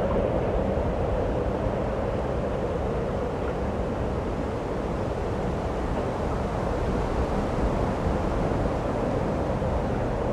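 Steady snowstorm wind: a continuous deep rushing with no breaks or gusts standing out.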